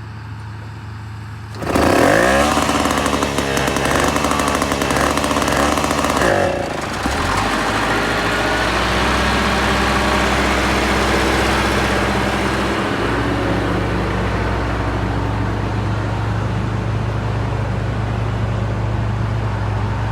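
An engine revs up sharply about two seconds in and holds high for about four seconds. It then drops back and runs steadily.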